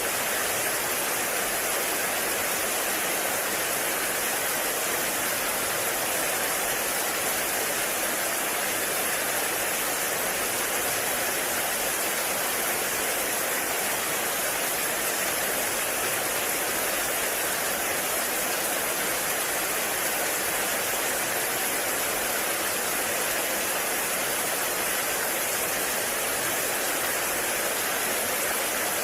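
Heavy rain falling steadily on a forest, a dense even hiss with no let-up.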